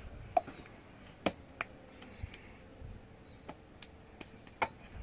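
Scattered light clicks and knocks, about seven of them at uneven intervals, the loudest about a second in, over a faint steady hum.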